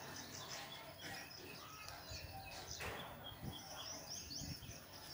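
Small birds chirping in quick repeated series over faint background noise, with a single sharp click about three seconds in.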